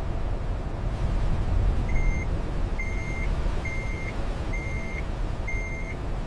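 Machinery warning beeper sounding five short, evenly spaced beeps, about one a second, over a steady low engine rumble.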